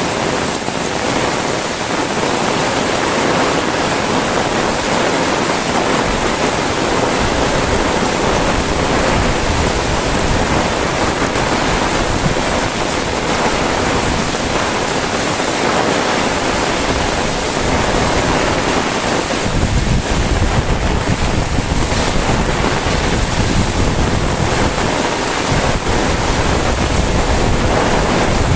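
Heavy rain falling steadily, with gusts of wind rumbling on the microphone, heaviest over the last third.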